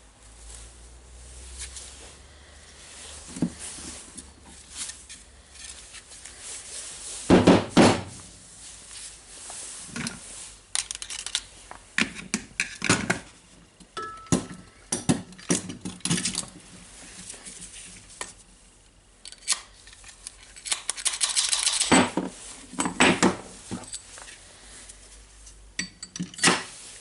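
Metal parts and hand tools of a rotary hammer drill being handled on a workbench: irregular clinks, rattles and knocks, with louder clusters of clatter and one brief metallic ring about halfway through.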